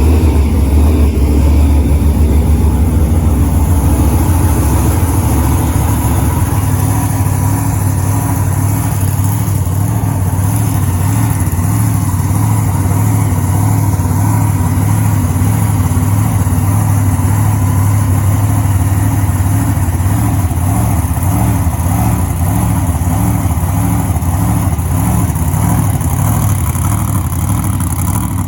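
An engine running steadily at an even, low speed.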